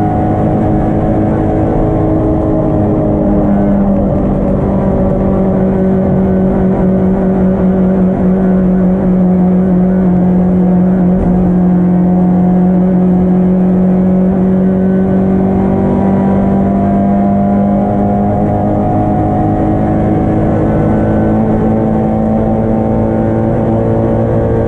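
Yugo race car engine at high revs, heard from inside the stripped cockpit while being driven hard. Its pitch drops once about three and a half seconds in, sags slowly through the middle, and climbs again near the end.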